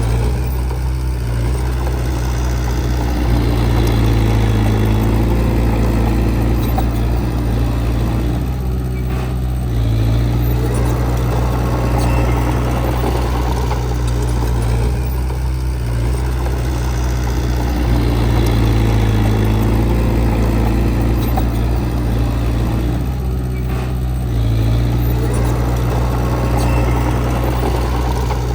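Heavy diesel engine of earthmoving machinery running steadily, its level swelling and easing a little every several seconds.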